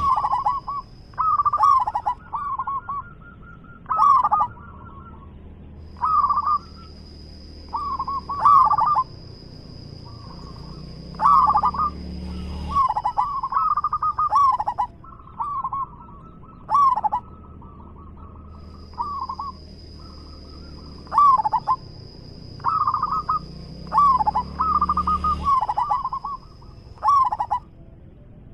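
Zebra dove (perkutut) cooing in short, rapid, bubbling phrases, one every one to two seconds. A thin, steady high whine comes and goes behind the calls.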